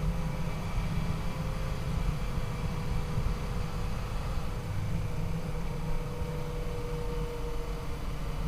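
Yamaha FJ-09's 847 cc inline-three engine running at a steady cruise under a heavy, fluttering rumble of wind on the microphone.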